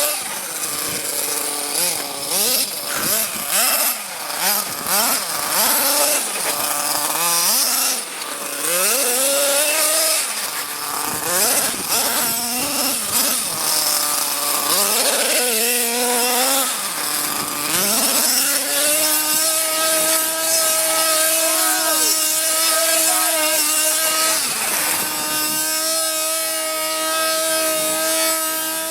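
Nitro RC monster truck's small two-stroke glow engine revving up and down over and over, then held at a steady high pitch from about two-thirds in, dipping briefly near the end.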